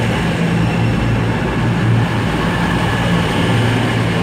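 Class 221 Super Voyager diesel multiple unit standing at the platform, its underfloor diesel engines running with a steady low hum.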